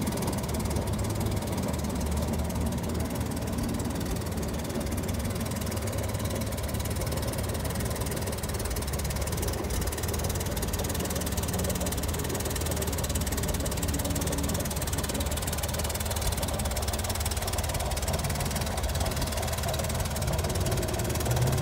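1962 Chevrolet Corvair van's rear-mounted, air-cooled flat-six engine running steadily.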